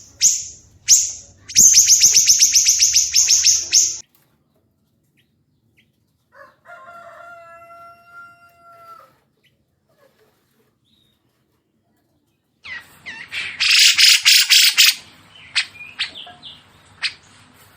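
Recorded songs of cucak jenggot (grey-cheeked bulbul) and siri-siri kecil: sharp high chirps that speed into a fast trill, a pause, a short, softer, lower whistled phrase, another pause, then a loud burst of dense harsh chatter about thirteen seconds in, with single sharp calls after it.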